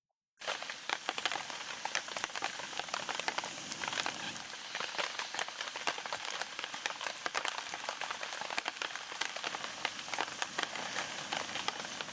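Heavy rain falling steadily, with many sharp ticks and crackles all through it; it cuts in suddenly about half a second in.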